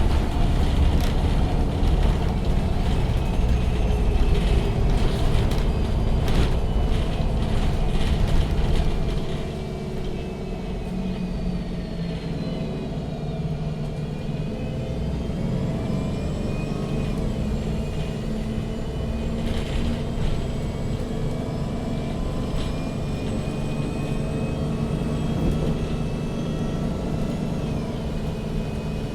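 MAN NG 313 CNG articulated bus heard from inside: a loud low rumble from the engine and running gear, with rattles and knocks. About nine seconds in it drops to a quieter rumble, and thin whining tones from the drivetrain rise slowly above it.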